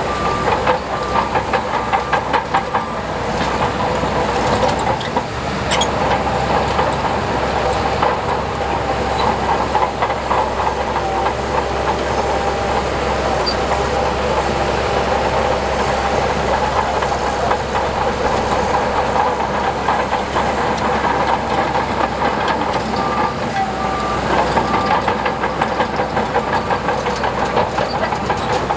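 Heavy tracked earthmoving machinery working: a diesel engine running steadily under the continuous clanking rattle of steel crawler tracks.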